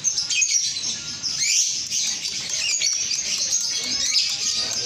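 Male lovebird chattering: an unbroken stream of rapid, high-pitched chirps and short twittering glides.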